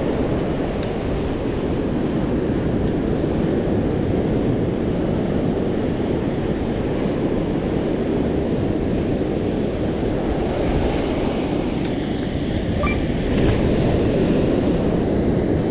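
Heavy surf washing onto a beach in rough post-typhoon seas, with wind buffeting the microphone; a steady, unbroken rush of noise.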